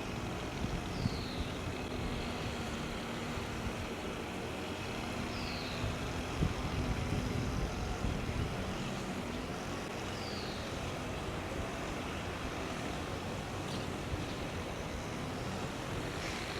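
Steady outdoor rumble of distant traffic, with a faint engine hum in the first half. A small bird gives a short, high, down-slurred call three times, about every four to five seconds.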